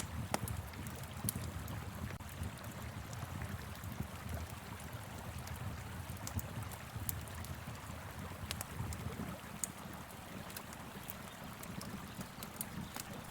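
Wood fire crackling, with scattered sharp pops, over the steady rush of a flowing river.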